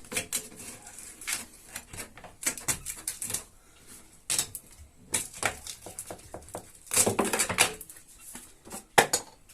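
Irregular clinks, taps and scrapes of broken window glass being worked out of its frame and handled, with a louder scraping rattle about seven seconds in and a sharp knock near the end.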